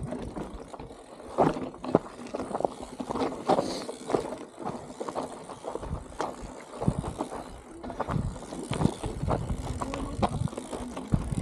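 Strong wind buffeting the microphone in uneven gusts, with scattered knocks and clatter throughout.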